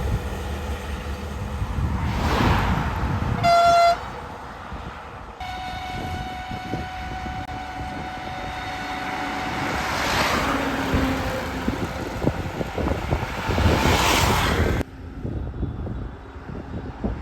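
A vehicle horn gives a short, loud toot, then a long steady horn blast of about nine seconds, while vehicles rush past on the road. The sound cuts off suddenly near the end.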